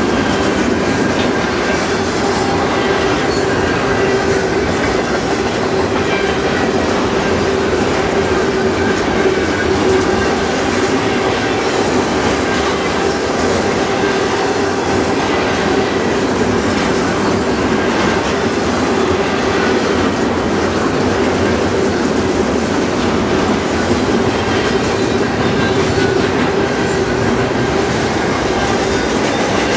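Double-stack intermodal freight train's well cars rolling past at steady speed: continuous clatter of steel wheels over the rail, with a steady tone running beneath it.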